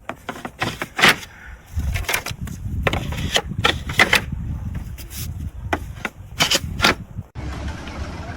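A rapid, irregular series of sharp knocks, several a second, over a low rumble.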